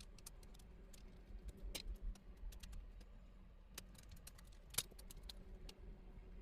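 Irregular light clicks and taps of a screwdriver, screws and small plastic and metal parts being handled while taking apart an iMac G3, with a few dull knocks about two seconds in and one sharper click near the end.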